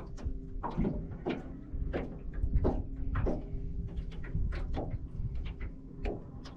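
Irregular sharp clicks and knocks, a few a second, over a steady low hum.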